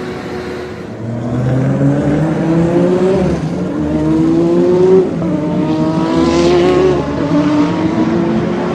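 Race car engine sound effect accelerating: the pitch climbs three times, dropping back after each climb as if shifting up through the gears, then runs steadier at speed.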